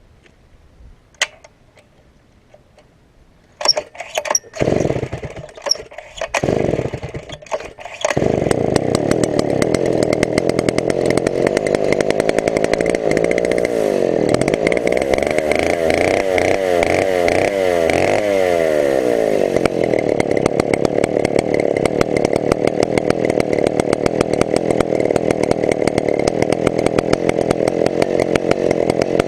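Chinese-made Stihl 070 clone, a big two-stroke chainsaw, being pull-started: several short sputtering bursts, then it catches about eight seconds in and runs. Around the middle the revs rise and fall for a few seconds before it settles back to steady running.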